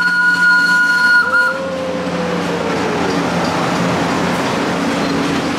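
A train running steadily, with a whistle sounding a held chord for about a second and a half at the start, followed by a slowly falling tone.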